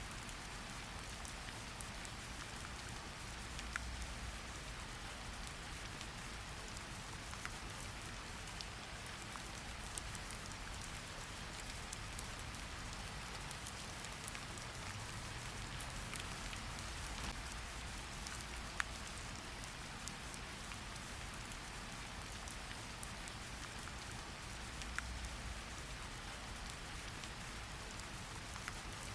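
Steady rain falling, a constant hiss with scattered distinct drops ticking and pattering.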